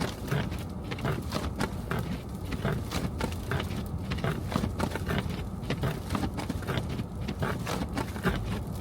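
Car driving on snow-covered streets: a steady low road rumble under a dense, irregular crackle of short ticks and crunches.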